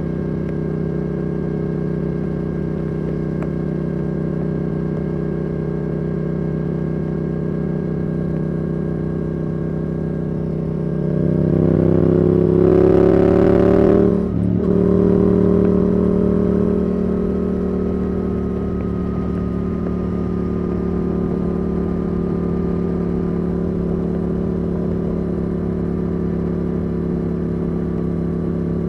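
Yamaha R7's CP2 parallel-twin engine through a Yoshimura R77 exhaust, cruising steadily, then accelerating with the pitch rising for about three seconds, a brief cut as it shifts up a gear, and then running steadily again.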